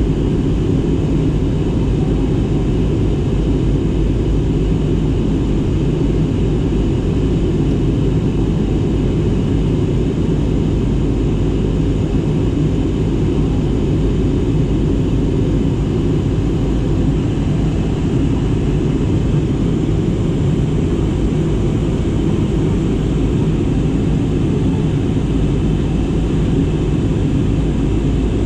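Steady drone of an airliner's engines and airflow heard inside the passenger cabin during the descent, a constant low rumble with a few faint held tones in it.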